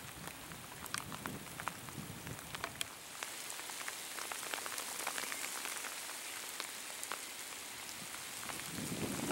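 Steady rain falling, with many individual drops ticking sharply close by; the rain gets a little heavier from about three seconds in.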